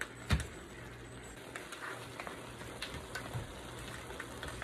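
Ground pork and sliced hotdogs sizzling in a wok, with scattered light crackles and one sharp knock just after the start.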